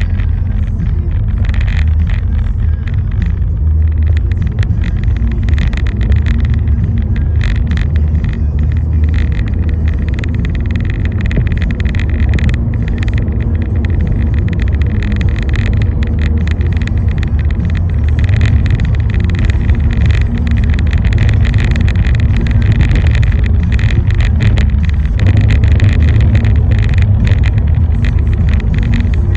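Car driving in the rain: a steady low rumble of engine and road noise, with hiss and scattered crackles over it.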